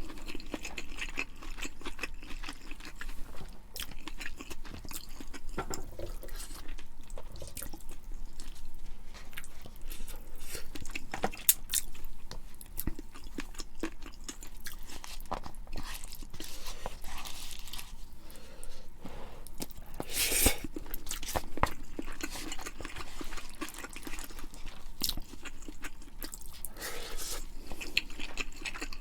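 Close-miked eating sounds: a person chewing and crunching food, with many short wet clicks and crackles and a louder crunch about two-thirds of the way through.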